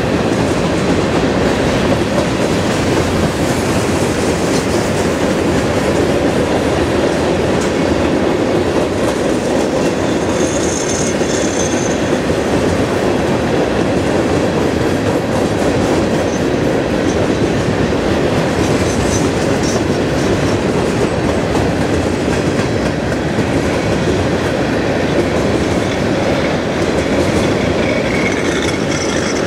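Covered hopper cars of a grain train rolling steadily across a steel trestle: a continuous rumble and clatter of wheels on rail. Brief faint high wheel squeals come about ten seconds in and again near the end.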